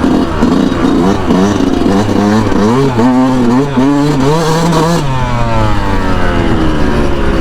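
2019 Yamaha YZ125 single-cylinder two-stroke engine revving up and down quickly as the throttle is worked while riding, then, about five seconds in, the revs fall away in one long smooth drop as the throttle is rolled off.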